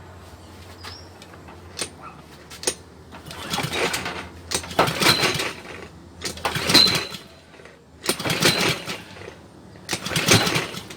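Honda GC160 small engine being cranked with its recoil pull-starter, five pulls in quick succession, turning over without catching. The owner finds the spark very faint.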